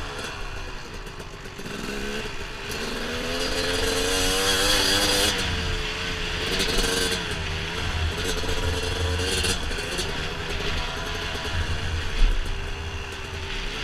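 Dirt bike engine under riding load, its pitch rising and falling again and again as the throttle is opened and eased off along the trail. A single sharp knock comes near the end.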